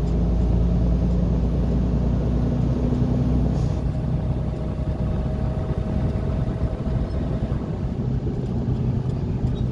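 Car on the move, heard from inside the cabin: a steady low rumble of road noise under an engine hum whose pitch shifts a little along the way.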